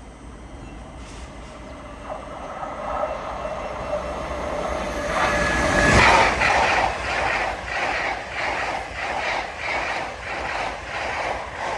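LNER Azuma (Class 800) train passing at speed: a rising hum that peaks about six seconds in, then an even clatter of its wheels over the rail joints, about two beats a second, as the carriages go by.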